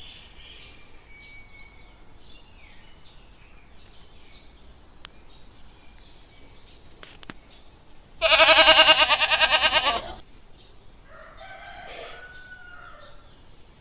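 One loud animal call lasting about two seconds, starting about eight seconds in, over faint chirps.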